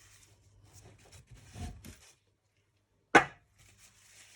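Small metal parts of a model nitro engine being handled and shifted, with light scattered clicks, then one sharp click about three seconds in as a part is set down or knocked.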